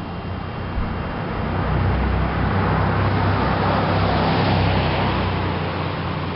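Chevrolet Blazer truck's engine and exhaust through an aftermarket DNA muffler, running under load. Its sound swells about two seconds in, stays loud through the middle, and eases off a little near the end.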